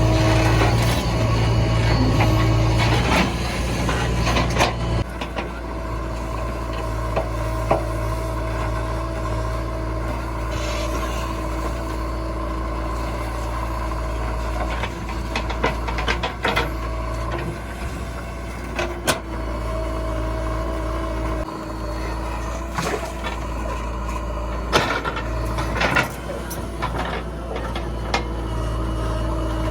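Diesel engine of a JCB 3DX backhoe loader running steadily while it works. Its note drops about five seconds in, and short knocks and clanks come now and then through the rest.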